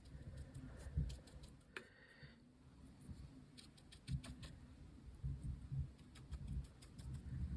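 Small scattered clicks and taps with soft low bumps from handling painting tools and materials at a craft table, with a brief squeak about two seconds in.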